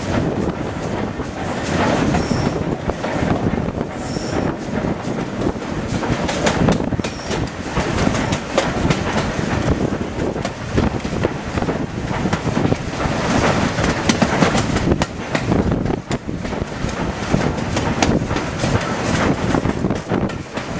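Steam-hauled train running downhill: steel wheels clattering irregularly over the rail joints, with rushing air.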